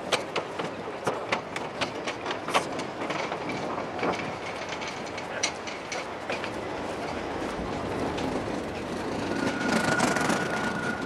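Train running on rails: irregular clicking of the wheels over a steady rumble, with a thin steady squeal setting in near the end.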